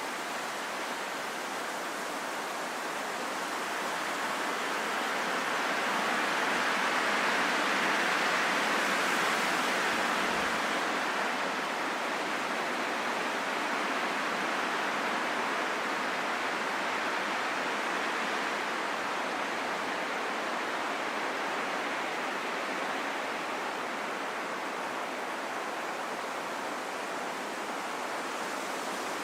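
Wind blowing steadily, a soft rushing hiss that swells to a gust about seven or eight seconds in and then eases.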